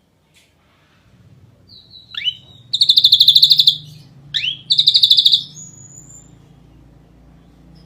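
Ashy drongo singing: a sharp downward-sweeping note followed by a loud rapid trill of about a second, repeated twice, then a short rising whistle. A faint low hum lies underneath.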